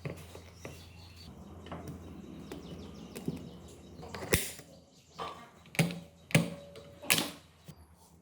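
Workshop handling noise from the engine work: small clicks over a low hum, then four sharp knocks of metal parts or tools in the second half, one leaving a short ring.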